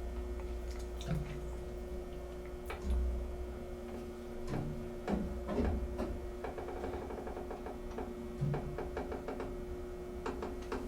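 Antique 1960s Sound (Rotary/Dover) hydraulic elevator's pump motor running with a steady hum as the car travels. Scattered clicks and knocks run through it, including a run of rapid ticks about six to eight seconds in.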